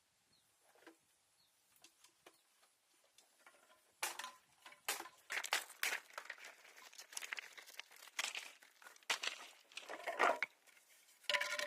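Irregular sharp clicks and crackles, sparse and faint at first, then much busier and louder from about four seconds in, some of them with a brief ringing tone.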